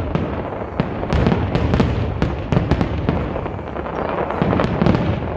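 Fireworks display going off in a continuous barrage: many sharp bangs and crackles a second over a steady low rumble.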